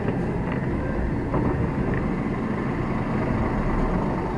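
Lorry running, heard from inside the cab: a steady low engine and road rumble.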